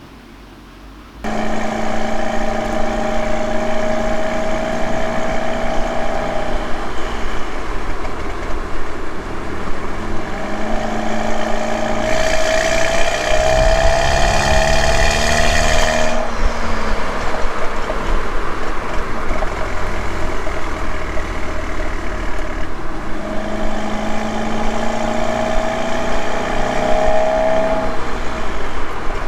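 Audi A3 2.0T turbocharged four-cylinder with an aftermarket downpipe and resonator delete, engine and exhaust running while driving. The sound cuts in abruptly about a second in. About halfway through, the engine note rises in pitch and grows louder with a hiss under harder throttle, then falls back.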